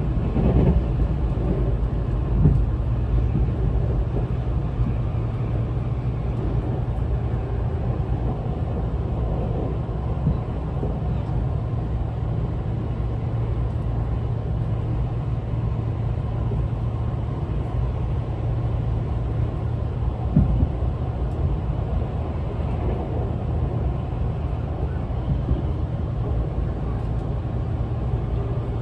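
A Tobu 200 series limited express running at speed, heard inside the passenger car: a steady low rumble from the wheels and bogies on the rails. A few brief louder knocks come through near the start and about 20 seconds in.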